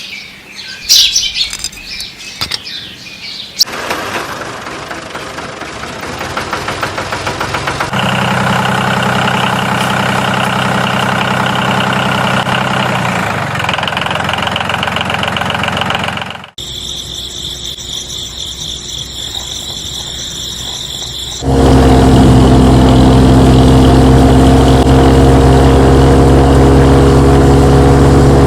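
Birds chirping for a few seconds, then a series of abrupt cuts between tractor engines running steadily. The loudest engine comes in about three quarters of the way through.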